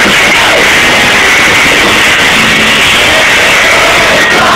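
Live rock music at a festival, recorded on an overloaded camera microphone so that it comes through as a loud, distorted, smeared wash with little detail.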